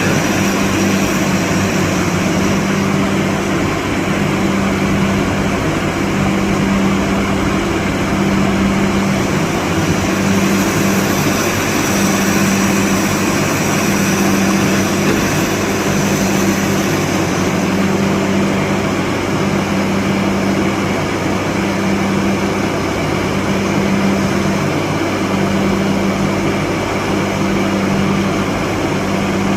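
Borewell drilling rig running steadily: a loud, continuous engine drone with a low hum that wavers every second or two.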